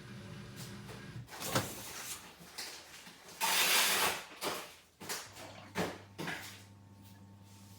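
Knocks and a sliding rush, like a dishwasher door or rack being moved, over a steady low hum that shifts pitch partway through.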